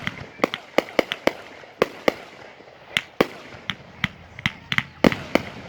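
Fireworks going off: a fast, irregular string of sharp bangs and pops, about twenty in under six seconds, some coming in quick clusters.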